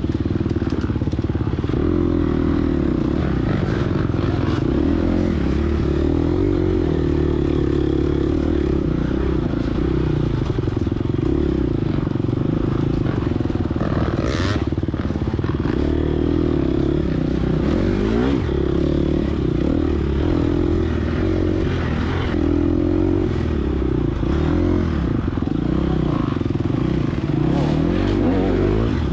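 Gas Gas EX250F single-cylinder four-stroke dirt bike engine running under load, revving up and falling off again and again as the rider works the throttle and gears through the course. One sharp clack about halfway through.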